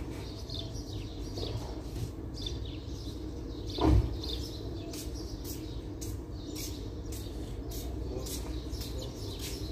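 Small birds chirping repeatedly over a steady low background rumble, with one brief louder low-pitched sound about four seconds in.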